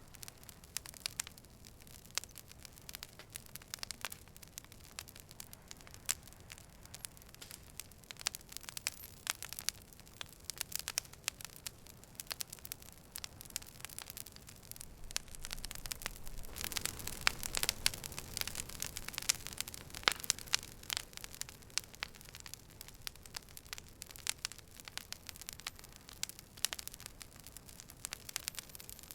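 Campfire crackling and popping, with sharp irregular snaps over a soft hiss; the crackling grows louder and denser for a few seconds a little past halfway, then settles back.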